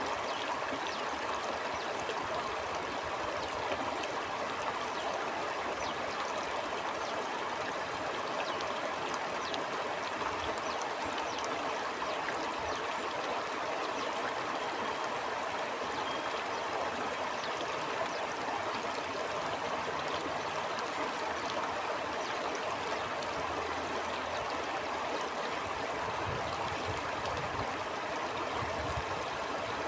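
Stream water flowing steadily, an even rush with small trickling splashes scattered through it.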